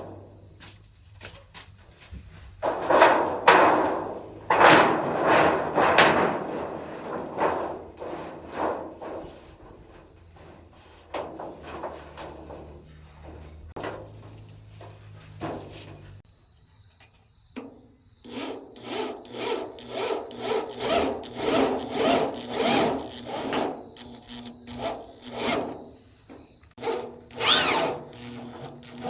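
Sawing in repeated back-and-forth strokes. The strokes are irregular at first, then settle into a steady run of about two a second in the second half.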